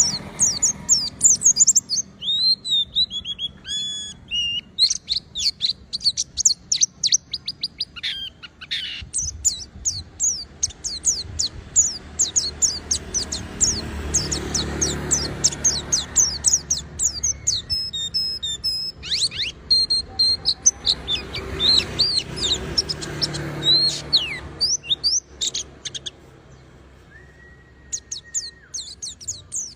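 White-eye (pleci) singing a fast, high-pitched twittering song of quick chirps and short sweeps in dense runs, easing off briefly near the end.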